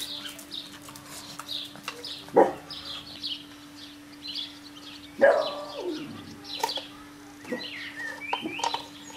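Small birds chirping in the background, with a faint steady hum. Two louder sudden sounds come about two and a half and five seconds in, the second falling in pitch.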